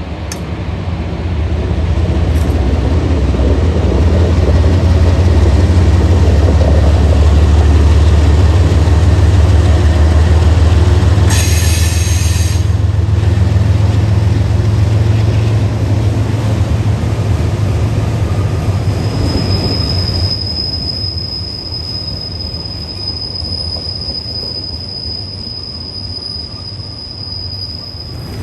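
A train passing: a heavy low rumble builds, peaks about six to ten seconds in and slowly fades. About twelve seconds in there is a brief high sound of several tones together. Through the last third a steady high-pitched wheel squeal sounds as the cars roll by.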